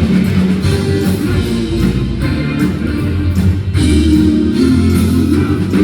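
Live rock band playing the instrumental close of a song, with electric guitar, bass and drums and no lead vocal.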